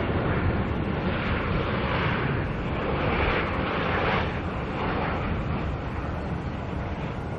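Airliner's engines as the aircraft passes: a broad rushing noise that swells a few times and then eases off after about four seconds.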